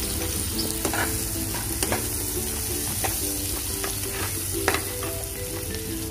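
Cubed potatoes, peas and onion sizzling as they fry in oil in a kadhai, stirred with a spatula that clicks and scrapes against the pan a few times.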